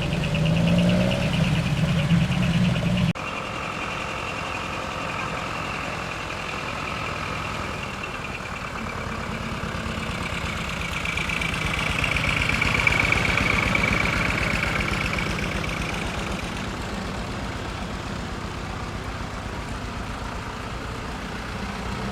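Heavy truck's diesel engine running. About three seconds in, the sound drops suddenly, then it swells and fades again around the middle as a truck moves past.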